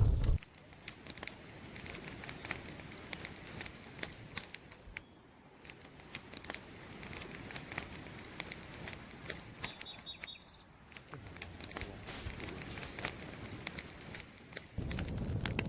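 Campfire crackling: a steady run of sharp pops and snaps from burning wood over a soft hiss, with a couple of faint, short high chirps about two-thirds of the way through. A low rumble drops out just after the start and comes back near the end.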